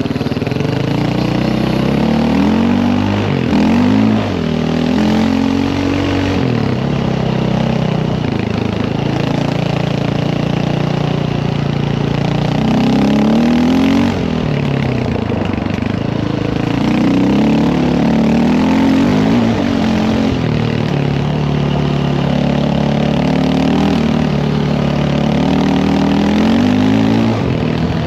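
Dirt bike engine running under way, its pitch repeatedly climbing and dropping as the throttle is opened and rolled off.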